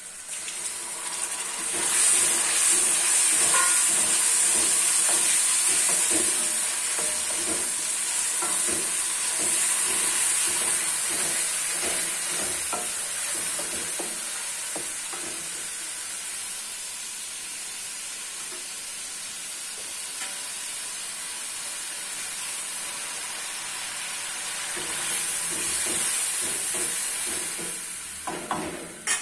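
Spiced masala frying in oil in a cooking pot, with a steady high sizzle that grows louder about two seconds in and again near the end. Through the sizzle a spoon stirs and scrapes against the pot.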